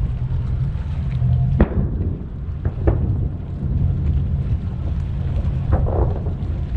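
Distant aerial firework shells bursting with sharp booms: one about one and a half seconds in, a quick pair near three seconds, and another pair near six seconds. A steady low rumble runs underneath.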